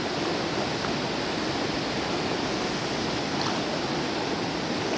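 Steady rush of flowing river water, an even noise with no break, and one faint tick about three and a half seconds in.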